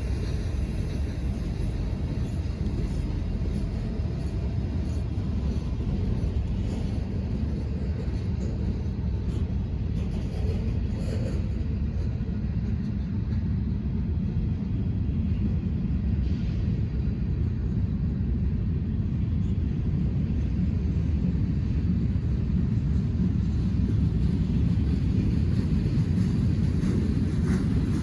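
Train rumbling steadily, getting a little louder near the end.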